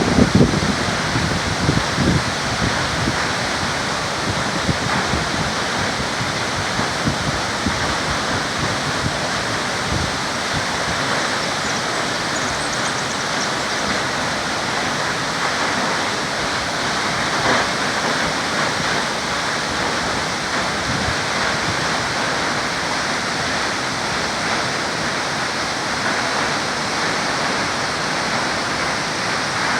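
Upper Multnomah Falls, a waterfall, rushing in a steady, even roar of falling water. A few gusts of wind hit the microphone in the first couple of seconds.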